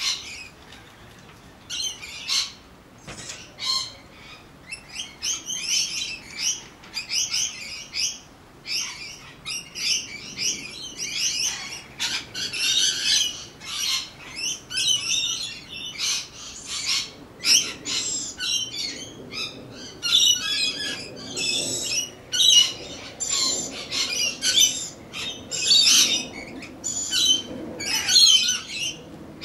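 Birds calling: a busy, continuous chatter of short, harsh chirps that grows denser after about ten seconds.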